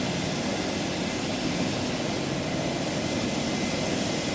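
Medical helicopter running on the ground before lift-off, a steady engine and rotor noise with a faint high whine.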